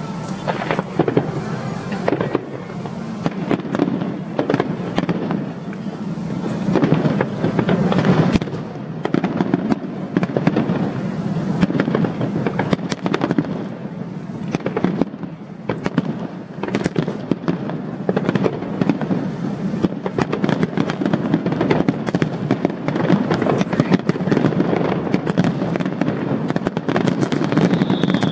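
Aerial fireworks display: a dense, continuous run of bangs and crackling bursts, many overlapping, with a heavier cluster of reports a little after a quarter of the way in.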